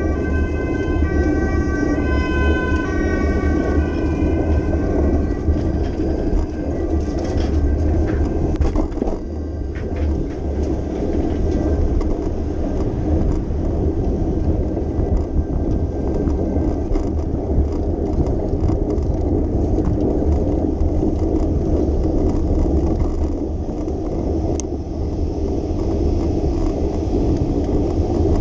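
Street ambience heard from a moving bicycle in city traffic: a steady low rumble throughout. Over the first few seconds a clear tone steps back and forth between a few pitches, then fades out.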